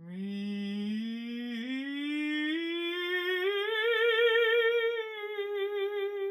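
A woman's voice singing one long wordless note that glides slowly upward for about four seconds, then holds with a wavering vibrato.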